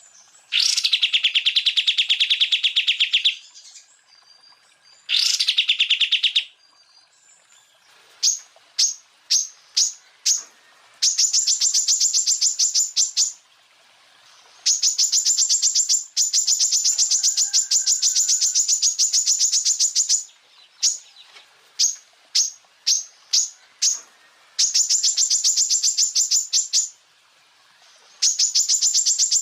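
Cucak ijo (green leafbird) singing rapid machine-gun trills: long runs of fast repeated notes, the first two lower-pitched and the later ones higher and shriller. Short separate notes come in two spells between them, around a third of the way in and again past the middle.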